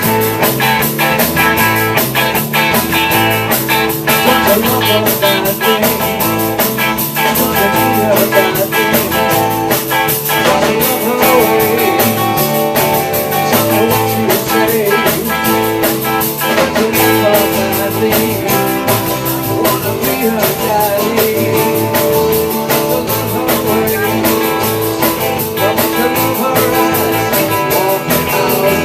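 Rock band playing a jam, with guitar over a drum kit keeping a steady beat.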